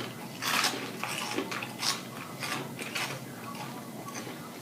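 Close-up chewing of crunchy food: a run of irregular sharp crunches, about two a second.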